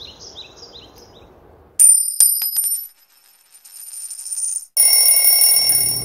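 A few bird chirps over quiet woodland background, then bright, bell-like electronic chime sound effects: a sudden ringing tone with sharp clicks about two seconds in, and a second, fuller ringing chime with a low hum under it from about five seconds in.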